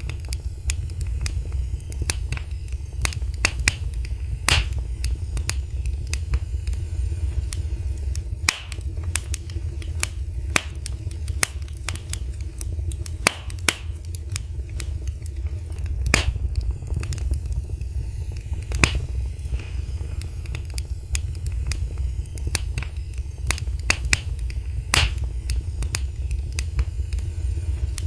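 Fire burning in a fireplace: irregular sharp crackles and pops, several a second and some much louder than others, over a steady low rumble.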